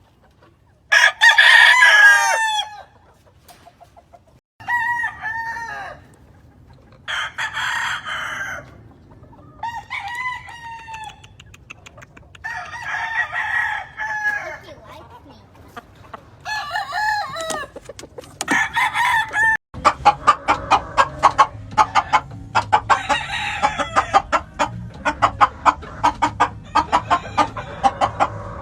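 Roosters crowing again and again, each crow one to two seconds long, with several birds taking turns. About two-thirds of the way in the sound changes abruptly to a dense run of rapid, short sounds.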